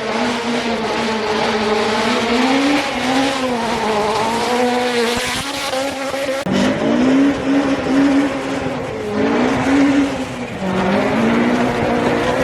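Rally car engine revving hard under full throttle, its pitch climbing and dropping over and over as it changes gear, with an abrupt change about six and a half seconds in.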